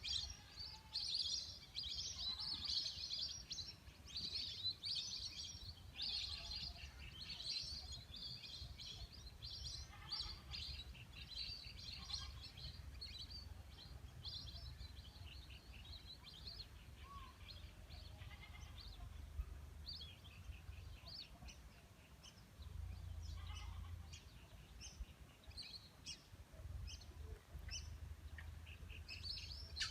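A flock of birds chirping and calling in a dense, overlapping chorus of short high notes, busiest in the first several seconds, over a low steady rumble.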